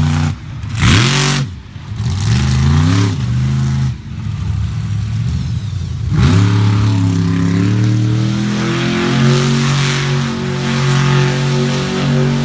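Monster truck's engine revving: a few short throttle stabs that rise and fall in pitch, then about halfway through a sharp surge up to high revs that climbs slowly and then holds steady.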